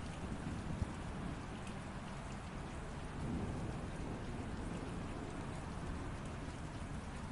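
Steady light rain falling on surfaces, with scattered drop ticks. A soft low rumble swells a little about three seconds in.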